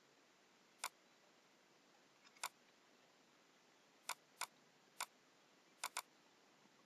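Computer mouse buttons clicking, seven separate sharp clicks spaced irregularly over a near-silent background, with a quick double click near the end.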